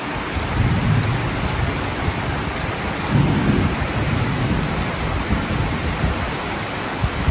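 Heavy rain pouring down steadily, with low rumbles of thunder that swell about half a second in and again around three seconds in.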